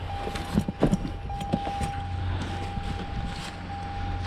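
Tow truck engine running with a steady low drone, with a faint steady whine above it and a couple of short knocks about half a second to a second in.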